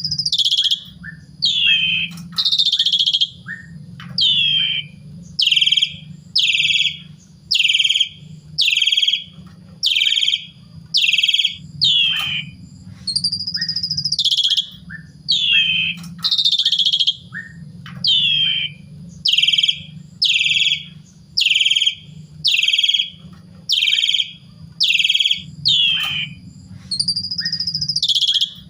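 Asian pied starling (jalak suren) calling loudly and repeatedly: a fast run of falling notes about one a second, broken a few times by a longer rising-then-falling whistle. A steady low hum runs underneath.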